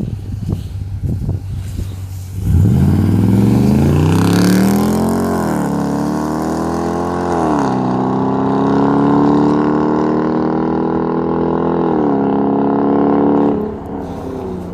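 Dodge Durango's 5.7 Hemi V8 through a muffler delete (2-inch pipe, converters and resonators kept) idling, then launching at full throttle about two and a half seconds in. The exhaust note climbs in pitch, dips at a couple of upshifts, holds and falls off sharply near the end.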